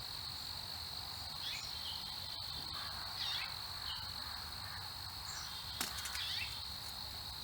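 A steady high-pitched insect drone, with short bird chirps scattered over it and a couple of sharp clicks, one in the middle and one about six seconds in.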